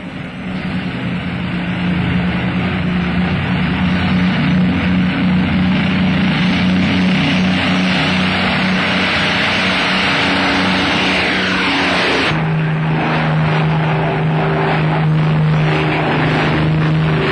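Avro Lancaster bomber's piston engines droning steadily. A whine falls in pitch about ten seconds in, and about twelve seconds in the engine note changes abruptly to a new steady drone.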